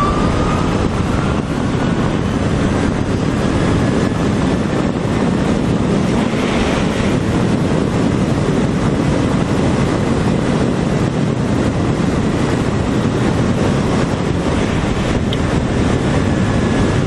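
Wind rushing over the microphone on an electric motorcycle under way: a steady, loud rush with no engine note.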